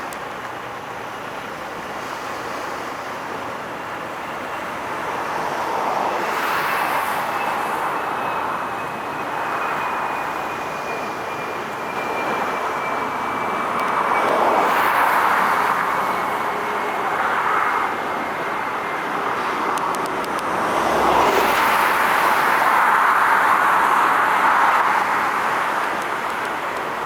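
Passing road traffic: a wash of vehicle noise that swells and fades several times as vehicles go by. A faint high whine falls slowly in pitch through most of it.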